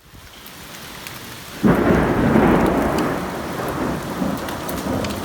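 Steady rain, then about one and a half seconds in a close thunderclap breaks in suddenly and rumbles on, slowly fading under the rain.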